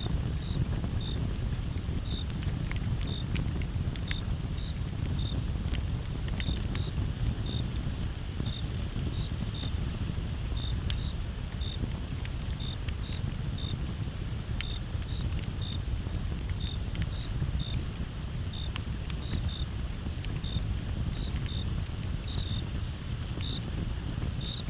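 Campfire burning with a steady low rumble and scattered sharp crackles and pops of burning wood, with crickets chirping in short repeated notes, about two a second, over a steady high insect drone.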